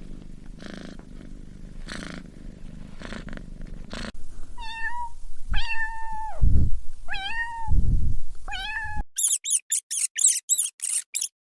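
Domestic cat purring, then meowing four times in drawn-out calls. Near the end comes a quick run of very high-pitched chirps from another small animal.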